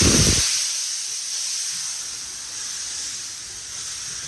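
Steam locomotive venting steam with a steady hiss. It is loudest in the first half second, then carries on and slowly fades.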